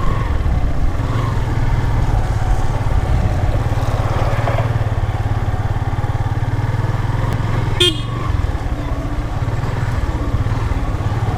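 Motorcycle engine running steadily while riding slowly, with a short vehicle horn beep about eight seconds in.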